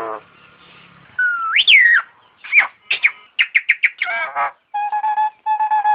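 A jalak nias (Nias myna) singing a varied run of loud whistles. A rising and falling whistle comes about a second in, then a quick string of sharp notes, then short steady whistled notes near the end.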